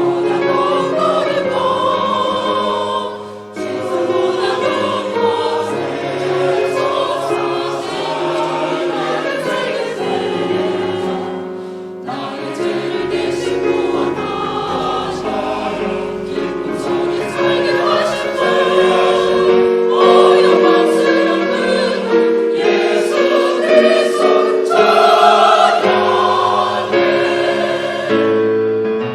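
A church choir singing a sacred choral piece, sustained multi-part harmony in phrases with brief breaths between them.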